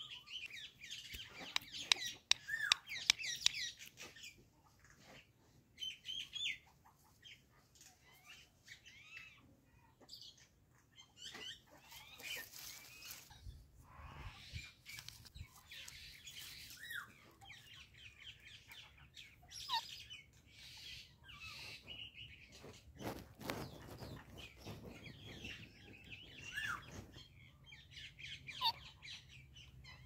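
Birds chirping: short, high twittering calls that come in bursts, busiest in the first few seconds and then scattered.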